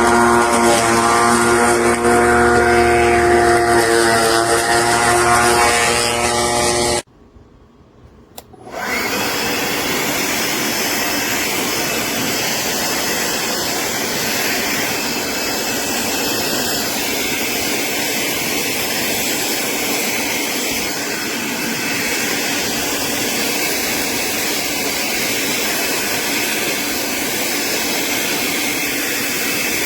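Greenworks 40V brushless cordless push mower running, its electric motor and blade making a steady whine whose pitch dips slightly and recovers as it meets the grass. The sound breaks off abruptly about seven seconds in, then comes back as a steady whirring hiss.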